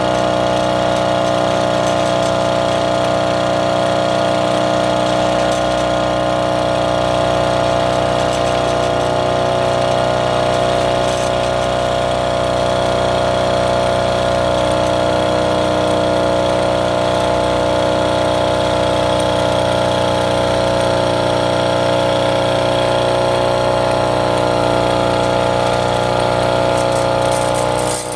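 Small engine of an agricultural hillside monorail running steadily at an even speed, with no breaks or changes in pitch. It is a freshly fitted used engine and transmission, running smoothly.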